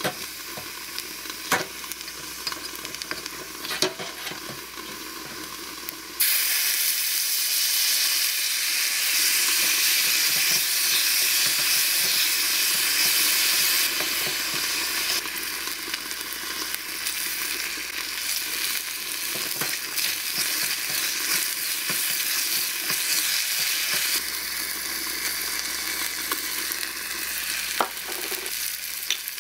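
Food sizzling in a miniature stainless saucepan over a small gas flame while a wooden spatula stirs it, with a few light clicks. About six seconds in the sizzle turns suddenly louder, and it eases a little near the end.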